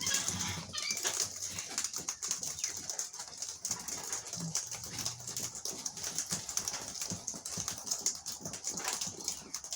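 Wild birds at a seed feeding spot: short chirps near the start and scattered light clicks throughout, over a steady hiss.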